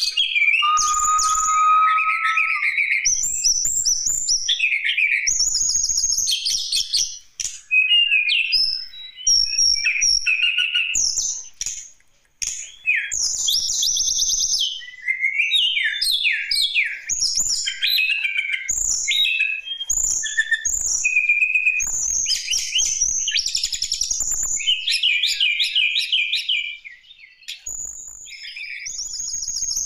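Tledekan gunung (Javan tesia) singing a long, varied run of high chirps, whistled notes and fast trills, with short pauses about twelve seconds in and near the end. The song is the kind played to stimulate caged birds into singing.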